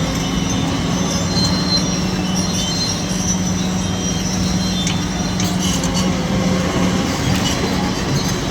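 Kobelco SK850 demolition excavator working: its diesel engine drones steadily under intermittent high-pitched squeals, with a few sharp clicks about five seconds in.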